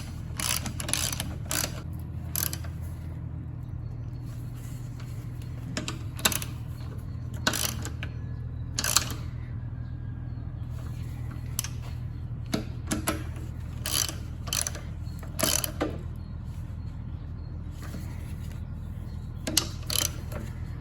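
Ratchet socket wrench clicking in short bursts with pauses as the rear-cover bolts of a manual gearbox are run down, over a steady low hum.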